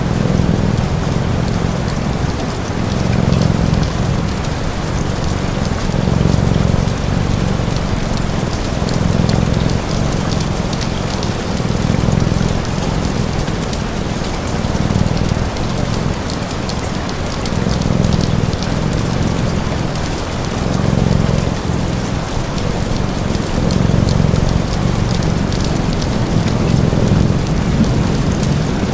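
Steady heavy rain, with a low cat purr that swells and fades about every three seconds and light crackling of a wood fire.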